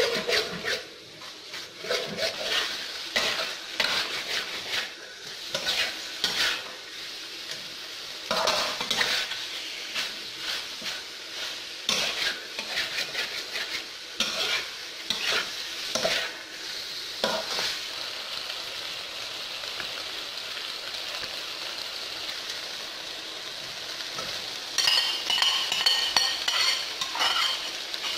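Pork sizzling as it fries in a metal wok, stirred with a metal spatula that scrapes against the pan in irregular strokes. For several seconds the stirring stops and only the steady sizzle is left. Near the end come ringing metallic scrapes and clinks.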